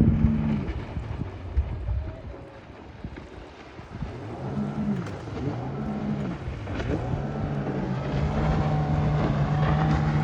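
Yamaha 115 V-MAX SHO four-stroke outboard running a small boat at speed. Its steady high engine note falls away about half a second in, stays low for a few seconds, swells back up twice, then holds steady and grows louder near the end, with wind noise on the microphone.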